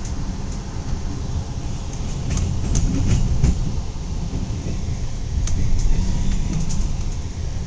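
Passenger train running through a rail yard, heard from inside the coach: a steady low rumble of wheels on the track, with scattered sharp clicks and clacks of the wheels over rail joints and points.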